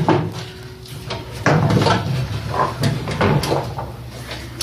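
Irregular knocks, clunks and scrapes of objects being shifted and set in place by hand, as something is propped up to light the work.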